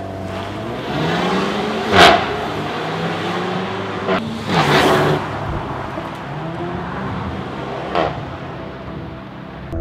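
Renault Mégane RS 1.8-litre turbocharged four-cylinder engine running under changing revs, its pitch rising and falling, with short sharp cracks about two seconds in, around four to five seconds in, and near the end.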